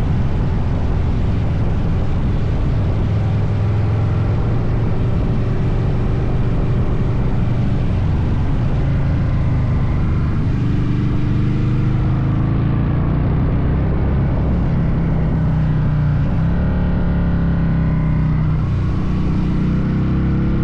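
Vehicle engine running under way, its pitch rising and falling with throttle and gear changes over a steady haze of road noise.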